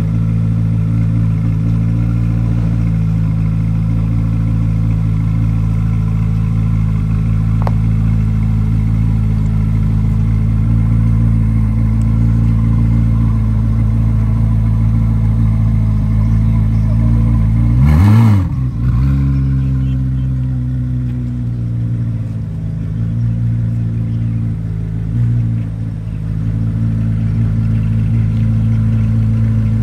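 2023 Corvette Z06's 5.5-litre flat-plane-crank V8 idling steadily. About two-thirds of the way through there is one quick rev that rises and falls within a second before it settles back to idle.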